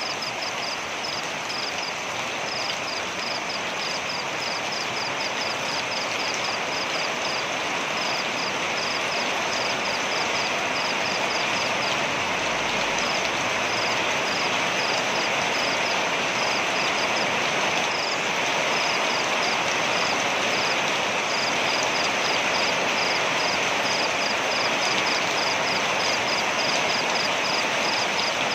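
Waterfall rushing steadily, with a rapid, high-pitched chirping of several pips a second running over the water noise.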